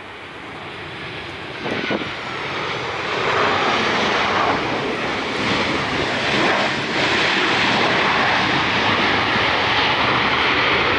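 An airliner's engines passing close, growing louder over the first three seconds and then holding a loud, steady rushing noise. There is a brief thump about two seconds in.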